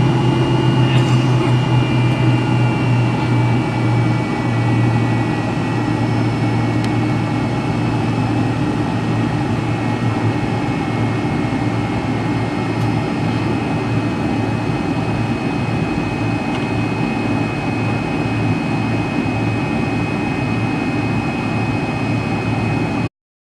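McDonnell Douglas MD-83's rear-mounted Pratt & Whitney JT8D-200 turbofans heard from inside the rear cabin: a steady low drone with a high whine on top, easing a little after a few seconds. The sound cuts off suddenly near the end.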